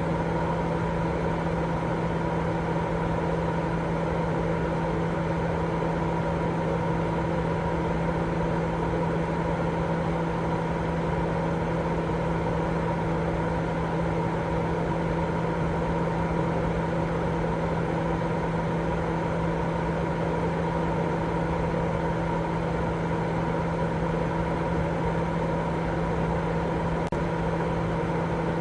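Continuous white-noise sleep sound: a steady, unchanging rushing hiss, heavier in the low and middle range than in the highs, with a constant low hum running through it.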